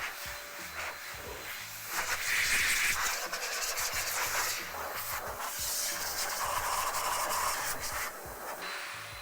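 Cloth rubbing and wiping over car paintwork, uneven and noisy, over a background music beat.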